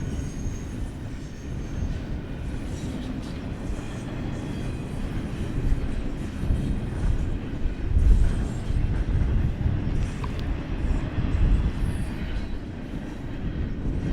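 BNSF freight train cars rolling past, a steady low rumble of steel wheels on the rails that swells louder twice in the second half, with a faint thin wheel squeal in the first second.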